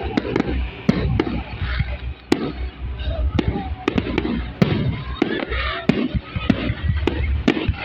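Fireworks display: sharp cracks at irregular intervals over deeper booms and rumble, with crowd voices.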